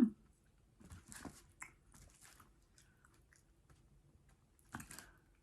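Close-up eating sounds: chewing, with wet clicks and crackles from the mouth in short clusters a few times. Right at the start there is a brief pitched vocal sound that rises and falls.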